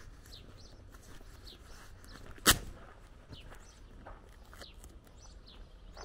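Small birds chirping, many short high chirps that slide downward in pitch, over a faint outdoor background. One sharp, loud knock stands out about two and a half seconds in.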